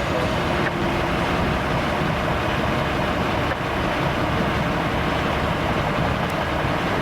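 Steady rumbling vehicle noise with a strong low rumble, even in level throughout.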